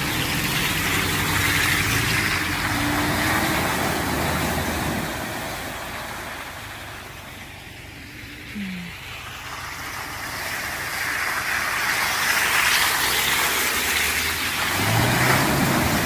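Off-road vehicle's engine running as it drives a rough trail, under a steady hiss. The sound fades about halfway through and then builds again toward the end.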